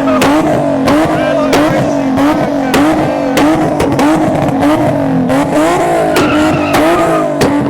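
Car engine revving in rapid, regular rising-and-falling surges, about one and a half a second, mixed with tire squeal, as in a burnout or donuts.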